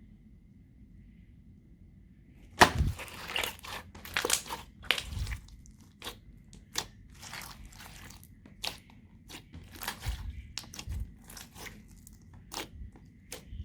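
Slime mixed with added bits being squeezed and kneaded by hand: irregular crackles, clicks and crunches. It is faint for the first couple of seconds, then starts with one sharp, loud snap.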